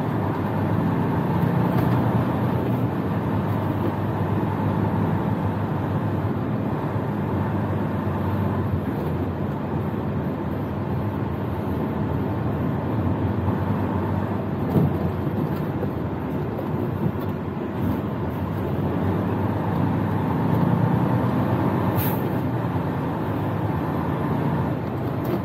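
Semi-truck's diesel engine running at low speed, heard from inside the cab, with steady road noise. The engine note swells for a few seconds near the end, and a brief hiss sounds just before it ends.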